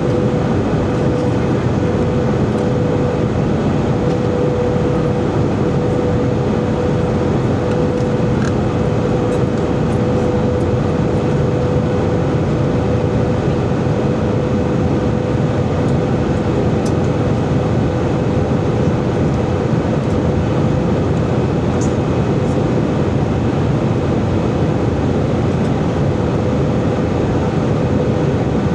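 Steady cabin noise inside an Airbus A320 airliner: a loud, even rumble of engines and airflow with a steady mid-pitched hum on top.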